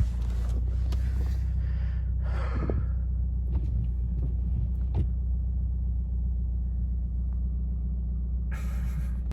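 Car engine idling, a steady low rumble, with a brief rushing noise about two and a half seconds in and a few light clicks; the rumble cuts off suddenly at the end.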